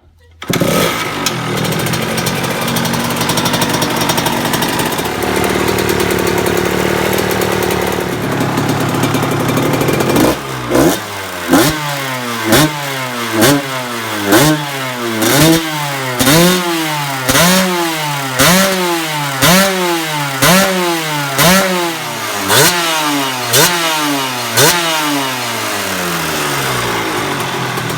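Suzuki RM125's single-cylinder two-stroke engine running steadily for about ten seconds, then revved in quick throttle blips about once a second, each rising in pitch and dropping back, before settling to idle near the end.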